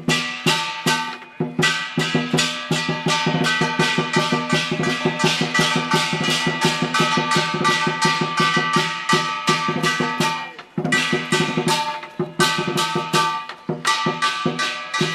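Chinese lion dance percussion: drum, cymbals and gong beaten in a fast, steady rhythm of about four strikes a second, with ringing metal tones, pausing briefly a few times.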